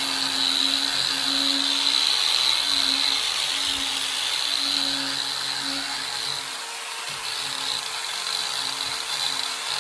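Power drill spinning an abrasive sanding wheel against a bicycle frame, stripping it to bare metal: a steady high whine over a hiss, with a lower hum that comes and goes.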